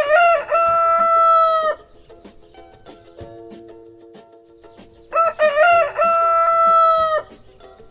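Rooster crowing cock-a-doodle-doo twice, about five seconds apart, each crow a few short notes rising into one long held note.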